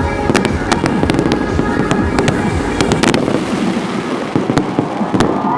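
Fireworks exploding in a rapid barrage: many sharp bangs in quick succession over a continuous low rumble.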